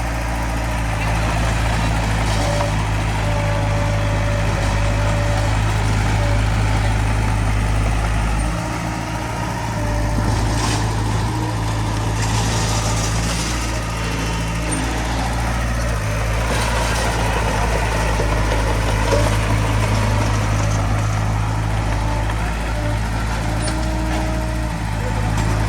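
Heavy diesel earthmoving machinery running steadily with a low, even drone, dipping briefly about nine seconds in.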